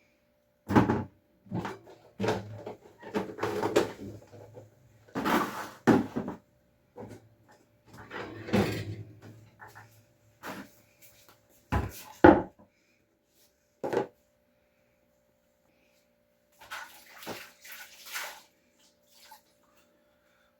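Household handling noises: irregular knocks and clatter of containers and objects being moved and set down, with stretches of rubbing, and two sharp knocks about twelve seconds in. A faint steady hum runs underneath.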